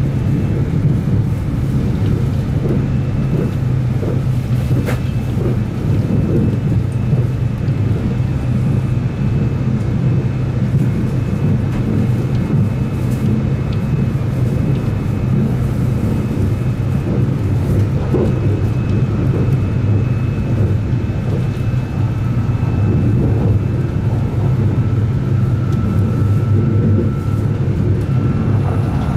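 Running noise inside a 789-series limited express train at speed: a steady low rumble of wheels on the rails, with a faint steady high tone through much of it.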